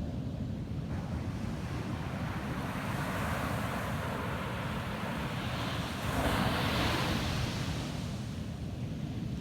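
Ocean surf on a beach: a wave's wash builds, breaks loudest about six seconds in, then fades back, over a steady low rumble of wind on the microphone.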